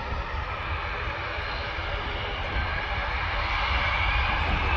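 Jet airliner engines running, a steady rushing noise with a faint high whine that grows gradually louder.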